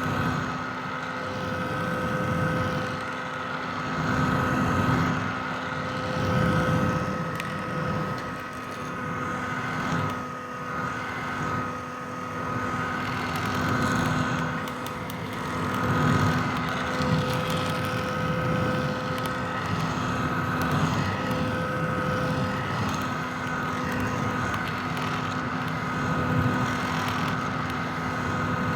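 Vintage hair dryer running continuously: rushing air from its fan over a steady motor hum and whine, the level swelling and easing every few seconds.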